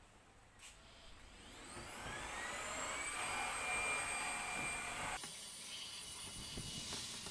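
Dual-purpose car and household vacuum cleaner switched on, its motor spinning up with a rising whine and then running steadily. About five seconds in, the sound drops abruptly and carries on more quietly.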